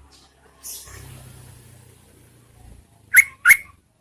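Yellow-vented bulbul giving two short, sharp calls in quick succession about three seconds in: a female's call used as a lure to bring males answering. A fainter hiss with a low hum runs underneath for about two seconds before the calls.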